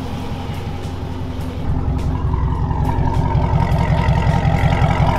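Dodge Challenger Scat Pack's 6.4-litre V8 rumbling at low speed as the car rolls in close past the camera, getting louder about a second and a half in.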